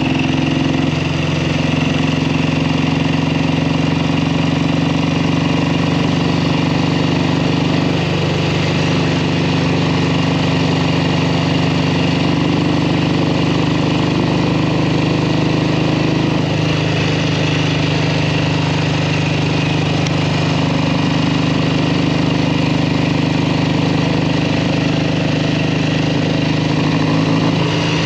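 1967 Kawasaki W1 650's parallel-twin engine running steadily at low revs under way, putting along with one of its two carburetors not working. Its pitch steps slightly up and down a few times.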